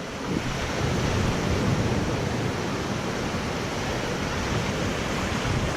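Ocean surf: a wave breaking and washing in, a steady rush of water that swells about a second in.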